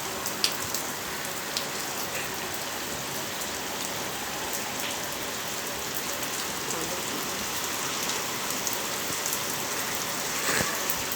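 Heavy rain falling steadily, an even hiss with scattered sharper ticks of drops striking a surface.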